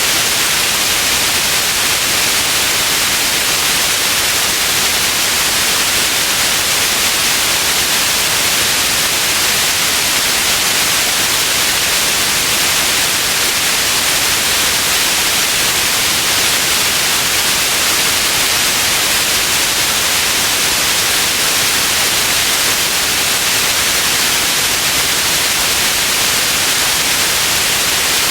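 Synthetic white noise: a steady, even hiss, loudest in the high frequencies, with no change.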